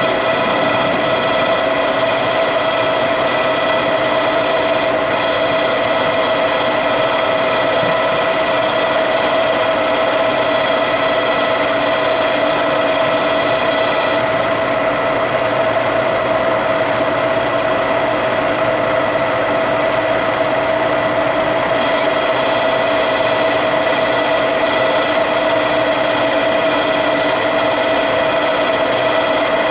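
Machine tool running steadily while drilling out the bore of a steering shaft coupler: a constant hum with one strong steady tone.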